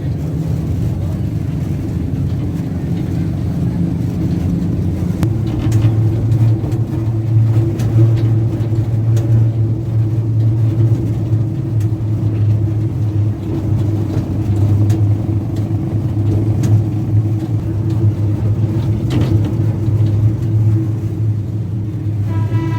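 A road train's engine runs steadily, its low hum dropping in pitch and getting louder about five seconds in, as if shifting gear. A tooting horn starts right at the end.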